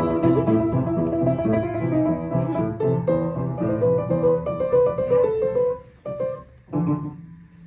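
Piano playing a melody over chords. It breaks off about six seconds in, leaving a couple of single notes that die away.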